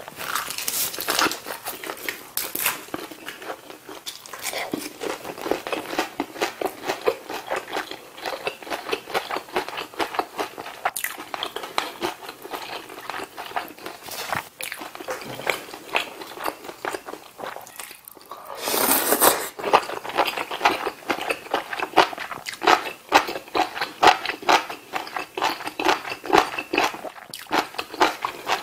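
Close-miked eating: steady chewing and biting, with many small wet clicks and crunches of stew, noodles, sausage and pork cutlet. About nineteen seconds in, a louder rush of noise lasting about a second.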